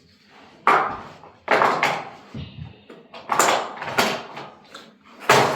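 Plastic toy monster trucks knocking and rattling on a toy track: about five sharp clatters, each dying away within half a second.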